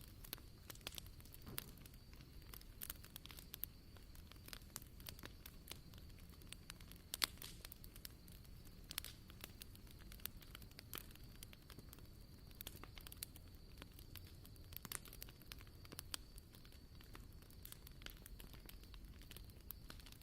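Wood bonfire crackling, with irregular sharp pops of burning wood and one louder pop about seven seconds in.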